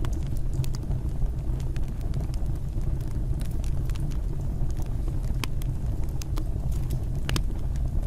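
Fire burning in a fireplace: a steady low roar of flames with irregular sharp crackles and pops.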